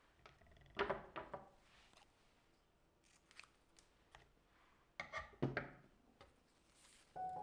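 Scissors snipping in two short bursts of quick cuts, about a second in and again about five seconds in. Music begins right at the end.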